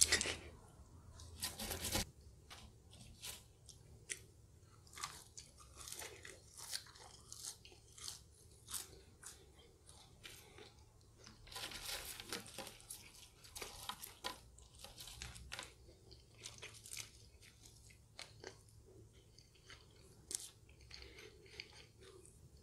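Close-up mouth sounds of a person chewing McDonald's french fries: an irregular string of short, soft crunches and chewing clicks. Near the middle comes a louder patch of rustling as fries are picked up from the pile on the paper.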